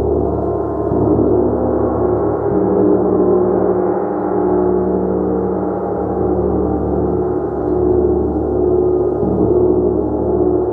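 Gong played continuously: a dense, sustained wash of many overlapping tones that swells and eases gently without a break.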